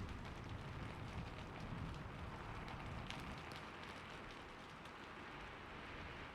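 Steady rain falling, with individual drops ticking sharply here and there. A low rumble underneath dies away over the first few seconds.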